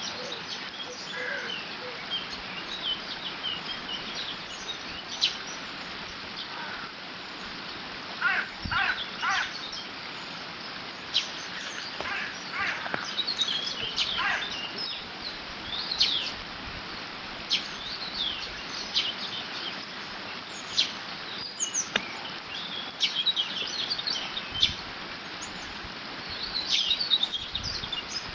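Water running steadily through a beaver dam, with many small birds chirping and singing over it throughout.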